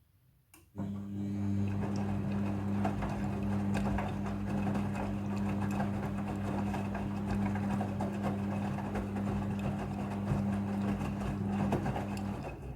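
Midea front-loading washing machine: a click, then a steady electric hum with a rattling wash of noise for about eleven seconds, which cuts off abruptly near the end.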